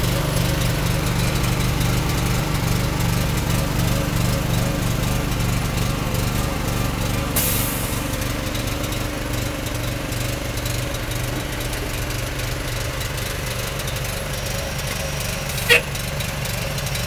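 An engine running steadily, with no revving, easing slightly in level. A short hiss about halfway through and a brief sharp squeak near the end.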